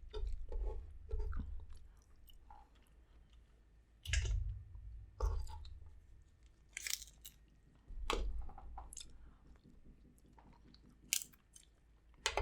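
Close-miked chewing and biting of seafood boil food, with irregular crunches and wet clicks and a few louder bites spaced a second or two apart.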